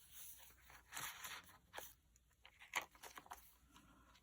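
Faint rustling and sliding of paper as the pages of a small handmade journal are handled, with a few short sharp ticks.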